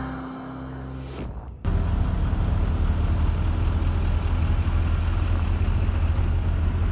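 Music fading out, then after a sudden cut about one and a half seconds in, a vehicle engine running with a steady low drone.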